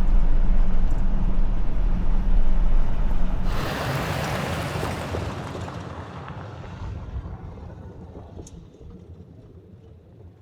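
A vehicle driving past on a dirt road: engine and tyre rumble with wind buffeting the microphone. It peaks about four seconds in, then fades away over the following several seconds.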